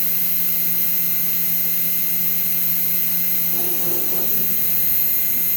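Fox Alien XE-PRO CNC router running: a steady high-pitched whine and hum, with a wavering lower tone joining about three and a half seconds in.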